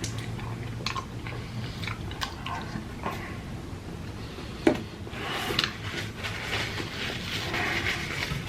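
A person chewing and biting food close to the microphone, with scattered wet mouth clicks, one sharper click about four and a half seconds in, and denser chewing in the second half.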